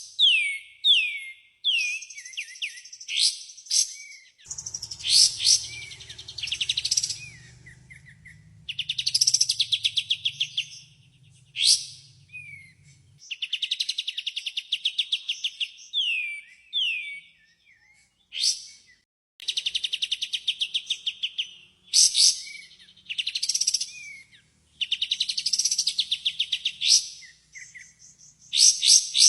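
Kapas tembak, a bulbul, singing loud repeated phrases: fast rattling trills mixed with quick downslurred whistled notes, every second or two with short pauses, a lure song meant to set other kapas tembak answering. A faint low hum runs under the song for several seconds early on.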